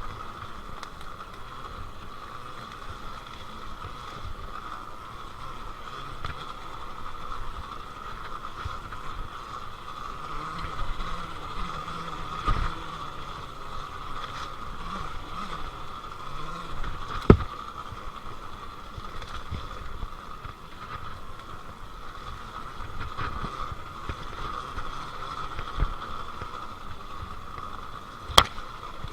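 Happy Run electric dirt bike being ridden over dirt trails: a steady electric-motor whine over tyre and wind noise, with a few sharp knocks, the loudest about two-thirds of the way through and another near the end.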